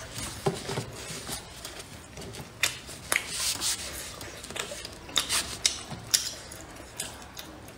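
Close-miked chewing and lip-smacking on a soft, sticky corn glutinous-rice cake: irregular wet clicks and smacks.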